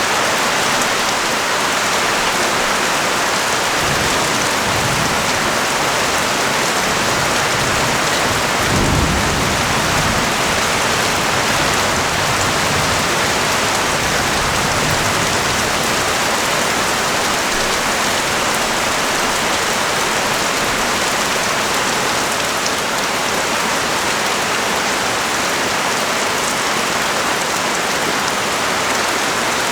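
Steady pouring rain. A low rumble swells and fades under it between about four and sixteen seconds in, loudest around nine seconds.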